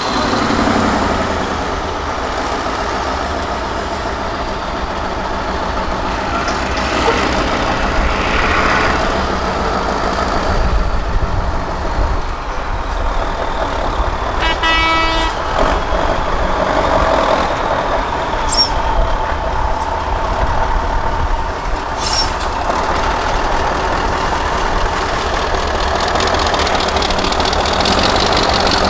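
Diesel engine of an 8x8 Mercedes-Benz trial truck running under load with a steady low rumble. A short horn toot sounds about halfway through, and there are a couple of brief sharp clicks or knocks later on.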